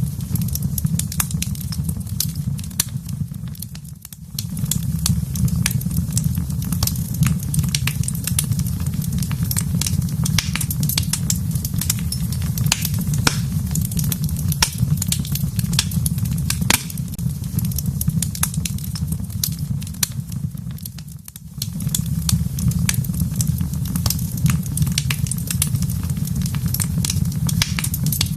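Wood fire burning in a fireplace: frequent sharp crackles and pops over a steady low rumble of the flames. The rumble fades briefly twice.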